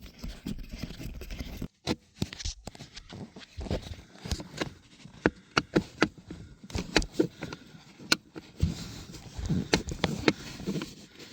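T25 Torx screwdriver working small screws out of a blower motor housing, with irregular clicks, scrapes and knocks of tool and parts being handled.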